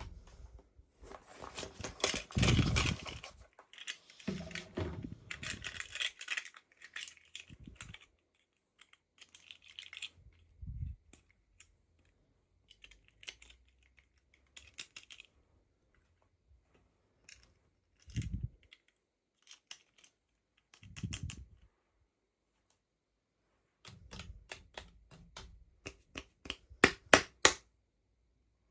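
Small plastic toy packaging being handled and opened: irregular bursts of crinkling and rustling with sharp plastic clicks and taps, and a quick run of loud clicks near the end.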